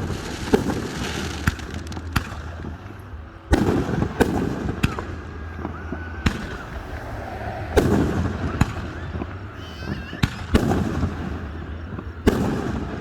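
Fireworks display going off: about a dozen sharp bangs at irregular intervals, each followed by a low rumbling echo.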